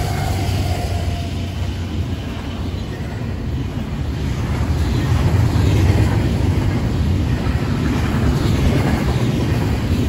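Union Pacific double-stack intermodal freight train passing close by: a steady low rumble of steel wheels on the rails as the container well cars roll past, getting somewhat louder after about four seconds.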